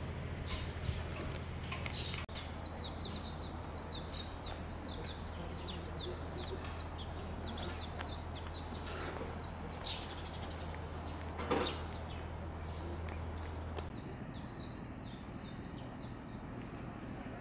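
Small birds chirping in quick runs of short, high, falling notes, over a steady low hum that stops about fourteen seconds in; one brief louder noise comes about eleven seconds in.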